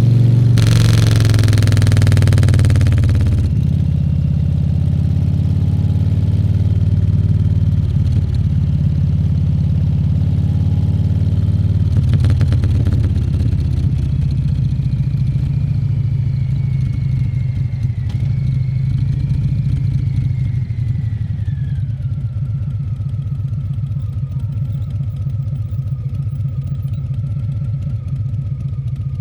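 Harley-Davidson Fat Bob 114's Milwaukee-Eight 114 V-twin running steadily under way, with a loud rushing noise over the first few seconds.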